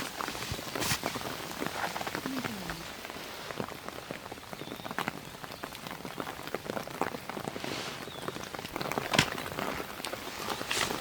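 Rain falling steadily, a dense patter of small drop impacts with a few louder single drops.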